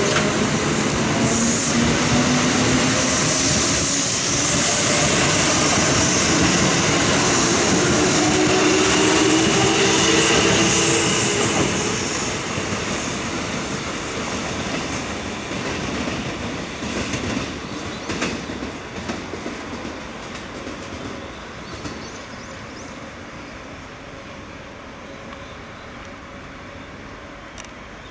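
A Kintetsu electric train running past on the rails, its motors humming in a few slowly gliding tones over the wheel noise. It is loudest for the first ten seconds or so, then fades steadily as it moves off, with scattered clacks from the wheels on the track midway.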